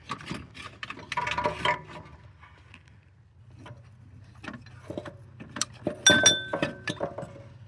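Metal clanks, knocks and clinks as a car's AC compressor is worked loose and pulled out past brackets and hoses, with a louder ringing metallic clink about six seconds in.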